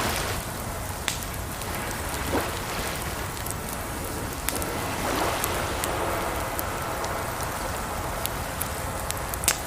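Campfire crackling with scattered sharp pops, the loudest near the end, over a steady wash of flowing water that swells softly a few times.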